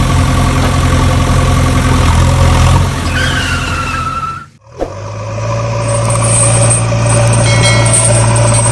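A vehicle engine running steadily, with a falling whine about three seconds in. The sound breaks off sharply about four and a half seconds in, then starts again and runs on steadily.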